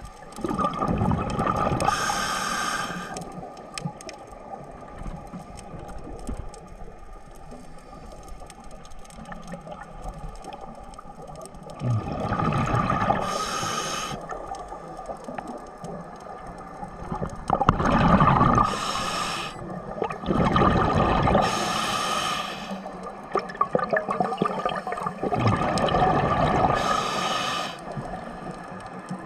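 A scuba diver breathing through a regulator, heard underwater: bursts of gurgling, hissing exhaust bubbles every few seconds, with quieter stretches between them.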